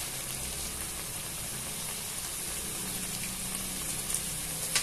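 Shredded chicken filling sizzling in a frying pan on a lit stove, a steady hiss, with one light click near the end.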